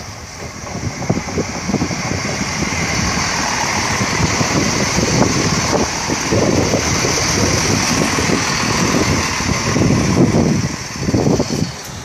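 A train passing through the station, a steady rush of wheel and engine noise with an uneven low rumble, building over the first couple of seconds and dropping away sharply near the end.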